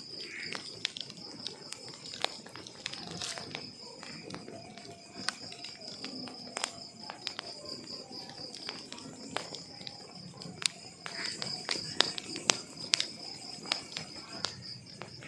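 Wood fire crackling in a fireplace, with frequent sharp pops that come thickest and loudest about three quarters of the way through, over a steady high-pitched hiss.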